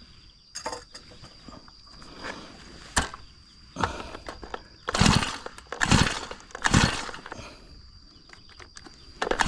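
Brush cutter's recoil starter pulled several times in short, rasping strokes, the engine not catching after a carburettor mixture-screw adjustment.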